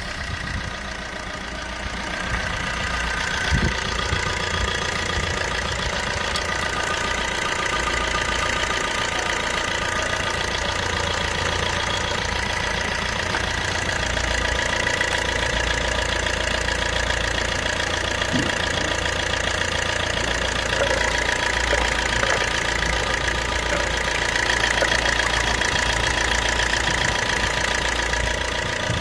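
Opel Z13DTH 1.3 CDTI four-cylinder turbodiesel running steadily at idle, with the typical diesel clatter.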